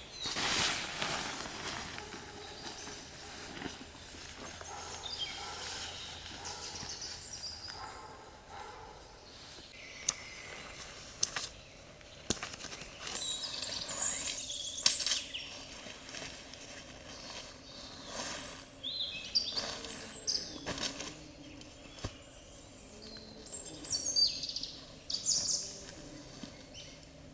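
Forest ambience with birds chirping in short high bursts every few seconds, over a steady background hiss, with occasional sharp snaps or clicks.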